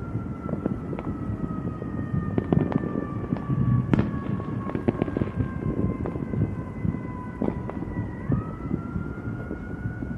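An emergency-vehicle siren wailing, its pitch sliding slowly down for about eight seconds and then rising quickly back up. Under it runs street noise, with many sharp pops and cracks scattered through.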